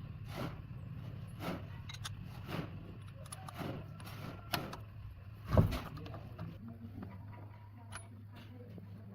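Sharp knocks about once a second, the loudest a little past the middle, then a few fainter clicks, over a steady low hum, as in repair work on a car.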